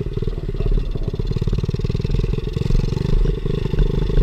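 Pit bike's small single-cylinder engine running as the bike is ridden, a steady, rapid pulsing of its firing strokes.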